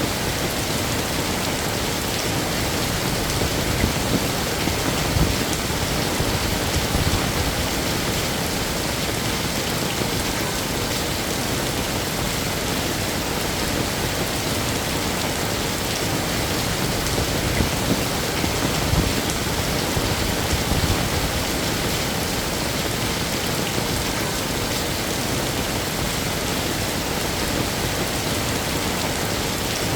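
Heavy rain falling steadily, a dense even hiss with occasional louder spatters.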